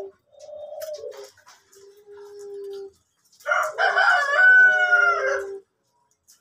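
Male orange puter pelung (domestic ringneck dove) cooing in long, steady, low, pure-toned notes, several in a row. About halfway in, a much louder, harsher call with many overtones rises and falls over the coo for about two seconds.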